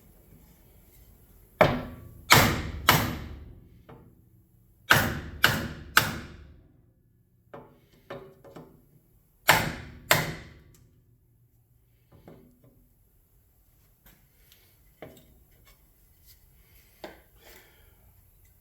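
Hammer blows driven through a wooden block onto a heated cast-aluminium motorcycle rim to straighten a bend: about eight heavy strikes in groups of two or three, each ringing briefly, then a few lighter knocks.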